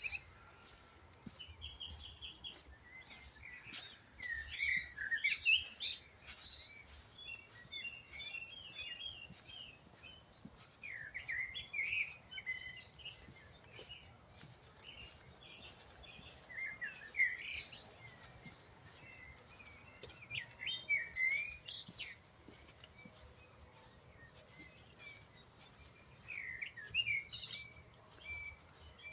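Songbirds singing in the woods: short bursts of quick, warbling, twittering song every few seconds, with quieter pauses between phrases.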